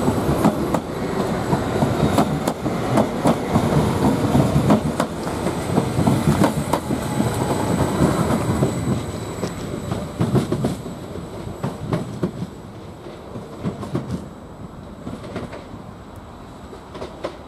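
Greater Anglia Class 755 bi-mode multiple unit pulling out, its wheels clicking rapidly over rail joints and pointwork under a steady running rumble. The sound fades away from about ten seconds in.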